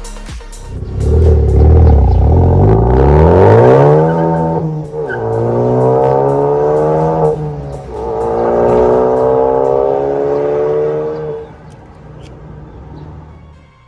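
Ford Focus ST Mk3's 2.0-litre turbocharged four-cylinder sounding through an MS-R valved cat-back exhaust under hard acceleration. The pitch climbs, drops sharply at two upshifts about five and seven and a half seconds in, and climbs again. Near the end the engine backs off and goes much quieter.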